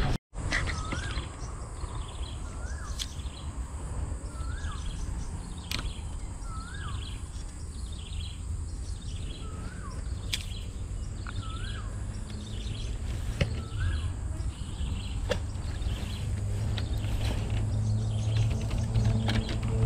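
A bird repeating a short whistled note that rises then falls, about once every second and a half, for the first two-thirds or so, over a steady high hiss and a low outdoor rumble, with a few sharp clicks.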